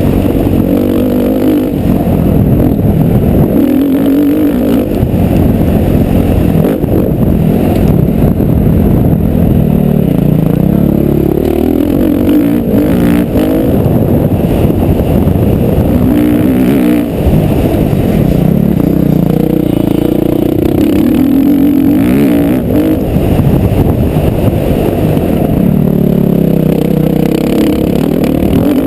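Motocross bike engine revving hard and dropping back over and over as it is ridden round the track, pitch climbing and falling every few seconds.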